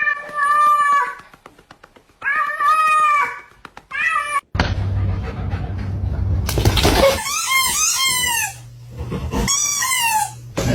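A pet animal making a series of long, drawn-out cries, some wavering and falling in pitch, with a steady low hum underneath from about halfway through.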